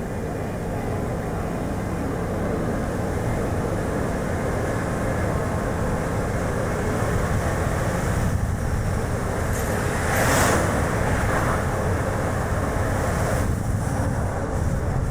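Steady road and tyre noise from a Chevrolet Spark city car being driven, with strong wind buffeting the microphone. About ten seconds in comes a brief, louder, hissier rush.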